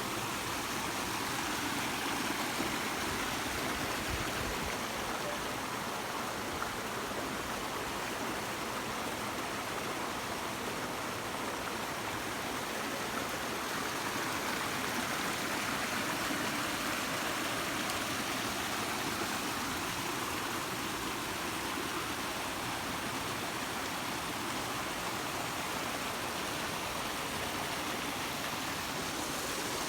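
Rushing water, a steady, unbroken rush of flowing water.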